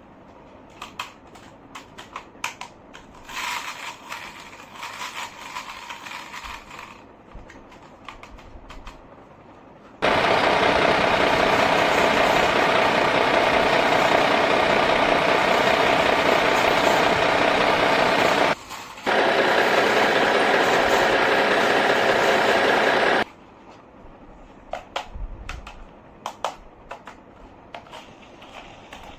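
A small motor running steadily and loudly for about thirteen seconds, stopping briefly once partway through, with light clicks and taps of handling before and after it.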